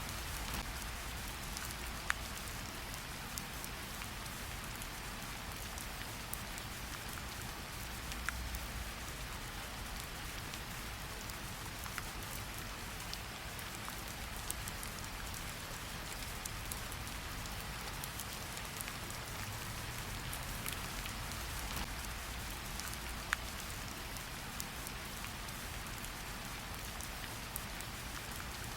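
Steady rain hiss laid under a wood fire, with scattered sharp crackles and pops a few times every few seconds and a low rumble underneath.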